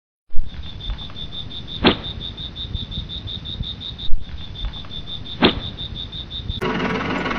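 A cricket chirps in rapid, even pulses, with two sharp clicks about two and five and a half seconds in. Music comes back in near the end.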